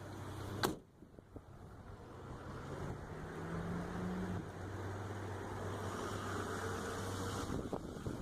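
Motor vehicle engines running close by, a steady low hum that rises in pitch for a moment as one pulls away, after a single sharp click about two-thirds of a second in.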